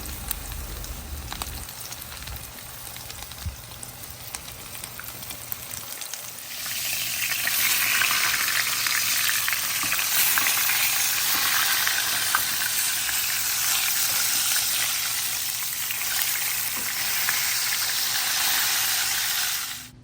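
Breaded chicken cutlets frying in hot avocado oil: a soft sizzle at first, growing to a loud, dense sizzle with fine crackling about six and a half seconds in, then cutting off suddenly at the end.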